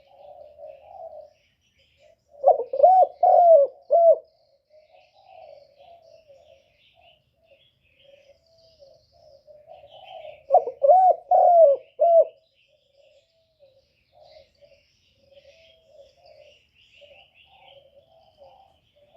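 Spotted dove cooing: two loud phrases of about four low coos each, some eight seconds apart, with softer cooing between them; the call is used to lure wild doves to a trap. Faint high chirping of small birds runs underneath.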